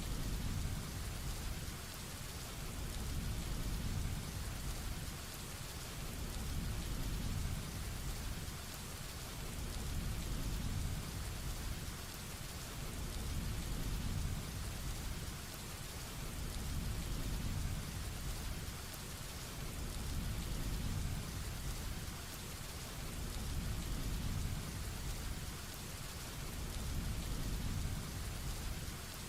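Heavy rain falling steadily, with a low rumble underneath that swells and fades about every three seconds.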